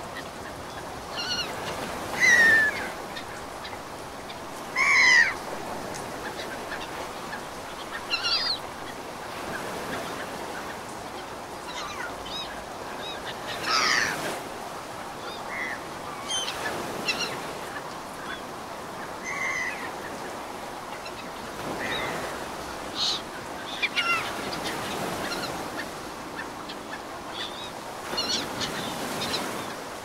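Birds giving loud honking calls every few seconds, each call sliding down in pitch, the two loudest near the start. Under them is a steady wash of ocean surf.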